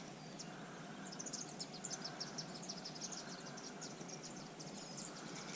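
Faint outdoor ambience with a rapid run of high, thin chirps or ticks, insect- or bird-like, starting about a second in and lasting until near the end.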